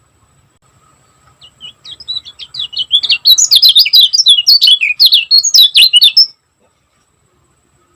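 Kecial kuning, a small white-eye songbird, singing a fast, tightly packed burst of high chirping notes. It starts with a few soft notes, builds into a loud rapid run, then cuts off suddenly.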